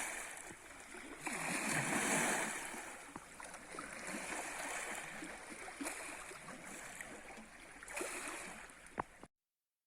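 Water gurgling and lapping in a steady, irregular wash that swells a little about two seconds in and again near the end, then cuts off abruptly.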